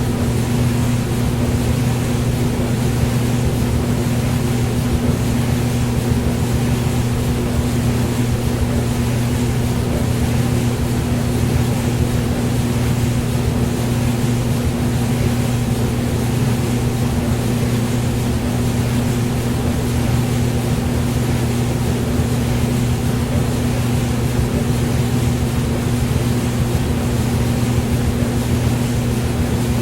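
Hair dryer running steadily: a constant rush of blown air over a steady low motor hum.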